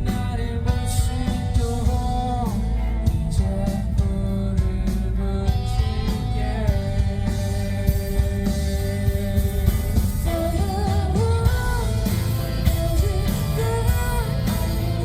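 A rock band playing live: a lead singer's voice over electric guitar, bass guitar and drum kit.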